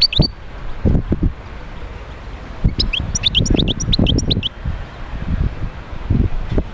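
European goldfinch singing: bright, quick down-slurred chirps, a short burst at the start and a rapid twittering run of about ten notes in the middle, over a loud low rumble with irregular knocks.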